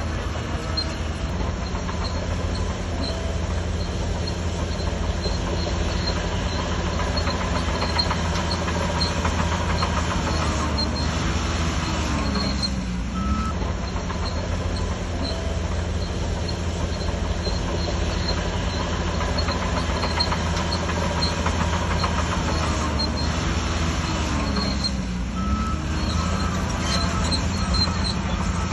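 Shantui DH17C3 crawler bulldozer's diesel engine running steadily under load, with a continuous metallic clatter from its steel tracks. The engine note dips briefly and recovers twice, about halfway through and near the end.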